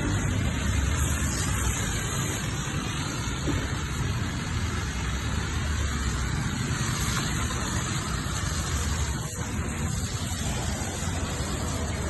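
Steady rushing noise of car washing: a pressure washer's spray with a low machine rumble underneath, briefly quieter about nine seconds in.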